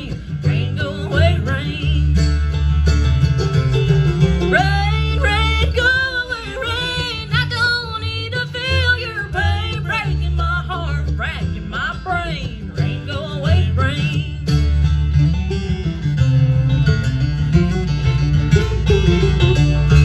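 Bluegrass band playing an instrumental break, with picked banjo and guitar over a steady bass. A lead melody with vibrato rises over them in the middle.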